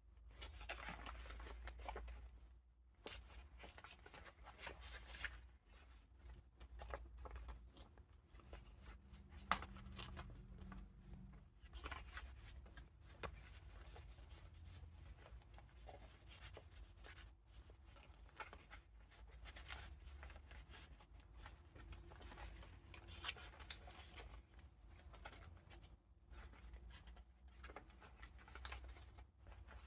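Pages of a handmade junk journal made of vintage paper being turned and handled: soft, irregular paper rustling and crinkling with small sharp clicks, over a low steady hum.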